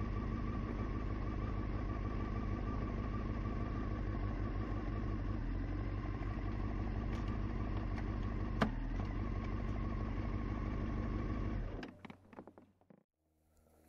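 Honda CBR sport motorcycle engine running steadily at low revs, with one sharp click a little past halfway. The engine sound stops abruptly near the end, followed by a few faint clicks.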